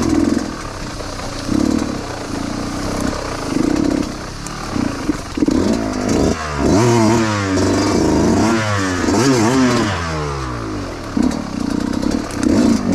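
Dirt bike engine revving in repeated throttle blips, with several rapid rises and falls in pitch in the middle as it is worked over slippery ground.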